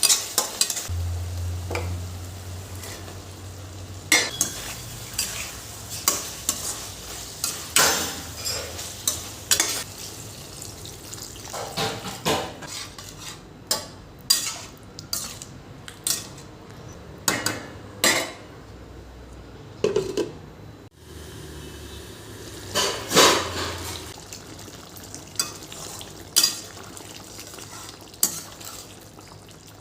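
Cooking in a pan: a metal spoon stirring, with irregular knocks and scrapes against the pan over a faint steady sizzle. A low hum comes in twice for a few seconds.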